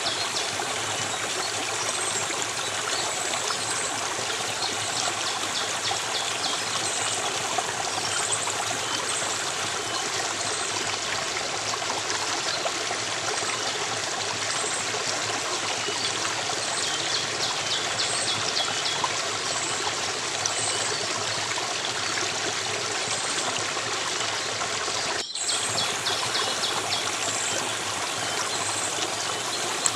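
Stream water running and trickling in a steady flow, with faint repeated high chirps over it. The sound drops out for an instant about 25 seconds in.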